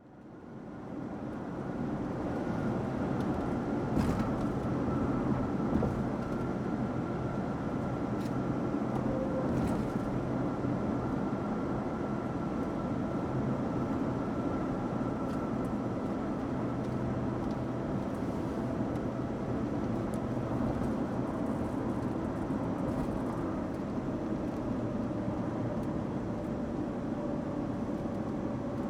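Car driving: steady engine and road noise with a faint steady whine, fading in over the first second or two.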